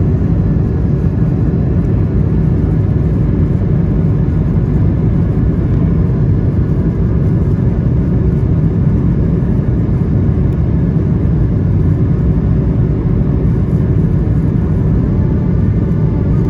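Cabin noise inside an Airbus A220-300: a steady rumble from its Pratt & Whitney PW1500G geared turbofans and the passing air, with faint steady engine tones above it.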